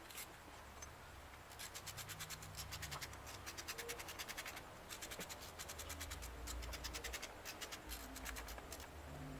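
Hand-tool work on a car engine: quick, even runs of clicking or scraping strokes, about nine a second, in several spells with short pauses.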